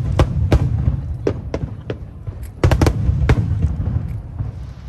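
Aerial fireworks bursting overhead: sharp cracks in quick clusters near the start and again about two and a half seconds in, over a continuous low rumble of booms.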